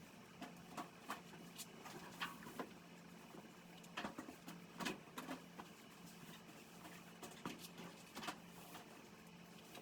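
Faint, scattered soft rustles and light taps of things being handled by hand, over a low steady hum.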